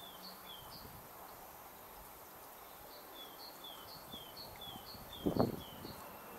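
Quiet outdoor ambience with a small bird singing a repeated two-note phrase, a higher note then a lower falling one: a few times at the start, then about twice a second from halfway through. A brief muffled thump about five seconds in.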